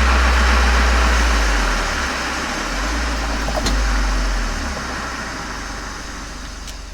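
Volkswagen Golf 7 GTI's turbocharged four-cylinder heard from outside through a Cox aftermarket muffler and chamber: a deep, steady exhaust drone. It shifts in pitch twice and grows gradually quieter.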